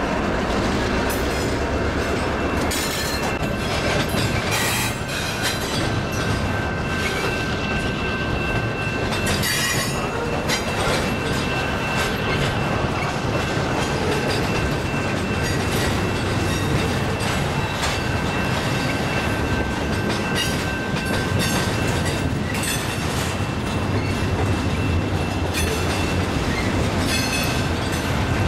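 Double-stack intermodal freight cars rolling past: a steady rumble of steel wheels on rail with sharp clacks here and there, and a thin high wheel squeal that holds steady through much of the passage.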